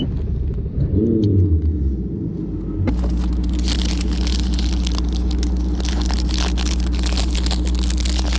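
Bass boat's outboard motor revving up about a second in, then running at a steady speed from about three seconds on, a low steady drone with a hiss over it.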